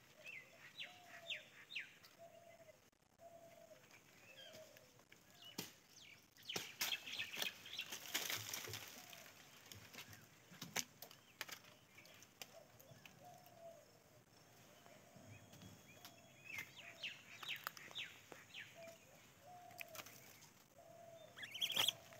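Faint birdsong: a short low call note repeated a little faster than once a second throughout, with scattered higher chirps. A stretch of crackling and rustling comes in around seven to nine seconds in, and again more briefly near seventeen seconds.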